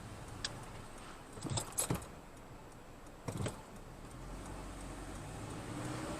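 Car driving, with low steady road and engine hum and a few short clicks and rattles about half a second, two seconds and three and a half seconds in.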